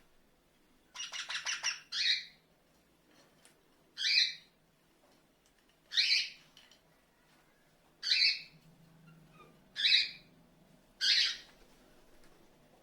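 Pet parrot giving short, loud, harsh screeches, one about every two seconds, six in all. About a second in comes a quick stuttering run of about six rapid notes.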